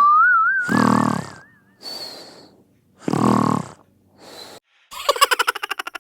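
Comic sound effects: snoring, with two loud snores about two and a half seconds apart, over a wobbling boing-like tone that rises and warbles for the first two seconds. Near the end comes a fast rattling buzz.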